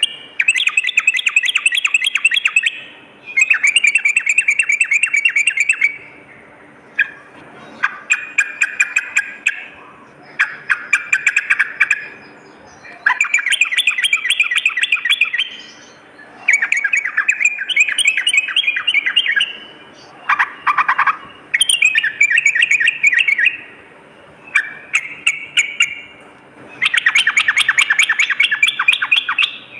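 Yellow-vented bulbul (trucukan) singing in repeated phrases of rapid chattering notes, about ten phrases each one to three seconds long, with short pauses between them.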